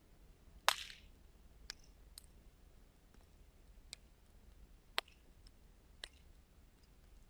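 Wood fire crackling: a handful of sharp, scattered pops from the burning wood, the loudest under a second in with a brief fizz after it, the rest fainter and spaced about a second apart.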